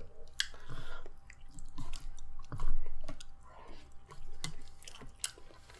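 A person chewing food close to the microphone: irregular wet mouth clicks and smacks.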